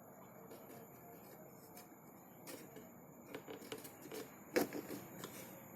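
A scattered run of soft clicks and knocks, such as handling around a lovebird nest box, starting about two and a half seconds in, with the sharpest knock a little past the middle.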